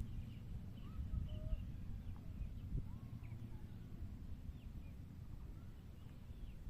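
Birds calling outdoors: scattered short chirps and whistled glides over a steady low rumble, with a few soft knocks.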